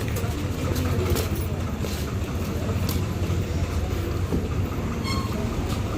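Steady low vehicle rumble with even road noise, from traffic or a car in motion, with a few faint clicks and a brief faint high tone about five seconds in.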